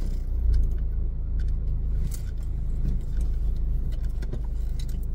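Car engine rumble inside the cabin, low and steady, with scattered light clicks and rattles.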